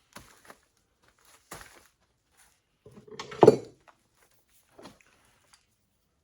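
A few separate metal clinks and knocks as parts or tools are handled. The loudest is a clank with a short ring about three and a half seconds in.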